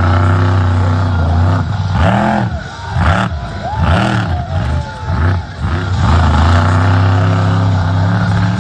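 Monster truck's supercharged V8 engine running at high revs, blipped up and down several times in quick rises and falls in the middle before holding steady again.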